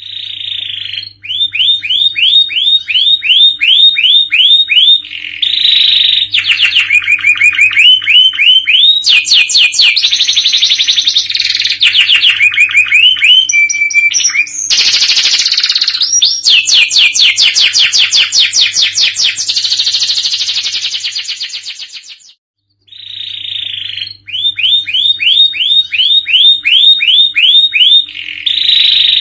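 Domestic canary singing loudly in long phrases of rapid repeated chirps and rolling trills, switching to a new phrase every second or two. The song breaks off briefly near the end, then starts again with the same opening phrases. A faint low hum runs underneath.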